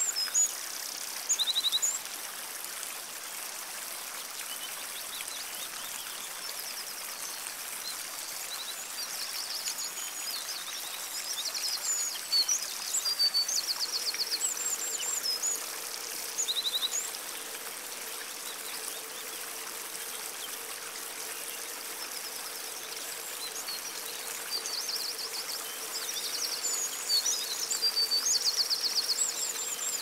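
Songbirds singing: short high chirps and rapid trills in clusters, busiest at the start, in the middle and near the end, over a steady rushing hiss. About halfway through a faint steady hum joins in.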